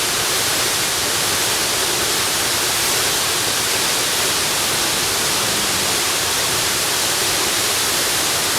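Waterfall: a steady, unbroken rush of falling water, heavy in hiss.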